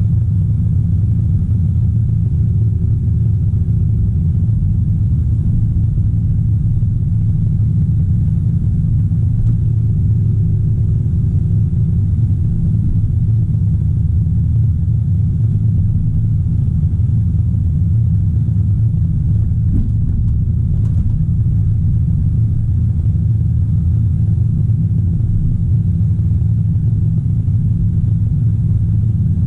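Diesel engine of a Caterpillar 973C track loader running steadily under load while digging, a loud low rumble heard from inside the cab.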